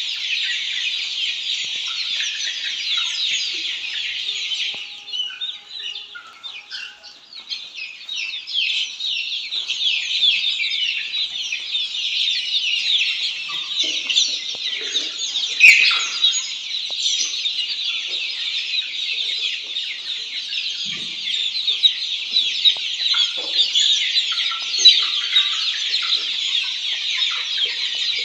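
A brood of black Australorp chicks peeping continuously: many high, short cheeps overlapping into a dense chorus, thinning out briefly about five seconds in.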